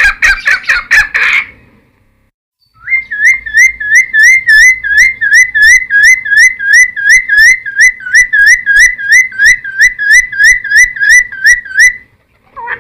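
Cucak timor (a friarbird) singing. A quick run of repeated notes ends about a second and a half in. After a short pause comes a long even string of hooked, whistled notes, about three a second, lasting some nine seconds.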